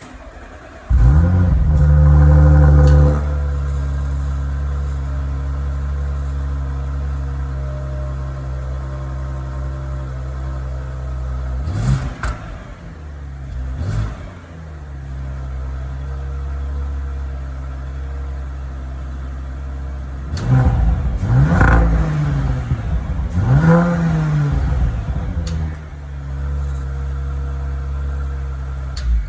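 2023 Audi RS5 Sportback's twin-turbo V6 cold starting. It fires about a second in with a loud flare of revs lasting about two seconds, then settles to a steady fast cold idle. It is blipped up and back down briefly twice around the middle and twice more near the end.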